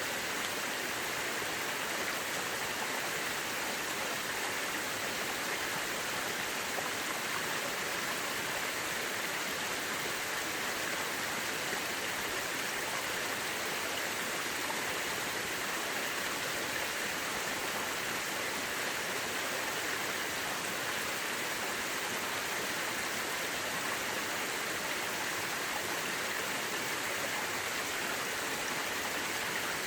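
Mountain river rushing steadily over rocks: a continuous, even hiss of running water.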